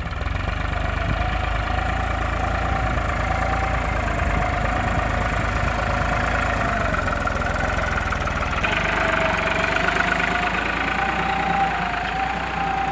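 Tractor diesel engine running steadily with a clattering note. About eight and a half seconds in, its sound changes, as if the load or revs shift.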